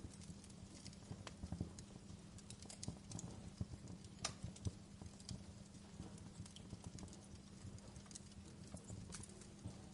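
Wood fire crackling in a fireplace: a low steady rumble of flames with irregular sharp pops and snaps, one louder pop about four seconds in.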